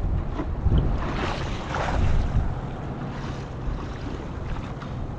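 Strong wind buffeting the microphone in a low rumble over choppy water sloshing. A louder splash of water comes about a second in.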